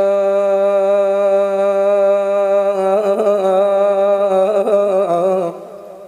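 A male munshid's voice holding one long, steady sung note, then breaking into wavering melismatic ornaments about three seconds in, and fading out about five and a half seconds in.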